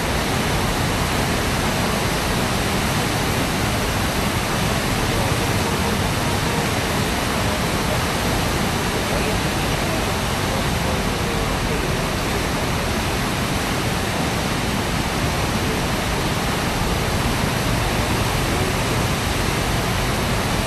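Heavy floodwater rushing through the open flood gates of the Krishna barrage: a steady, unbroken rush of water.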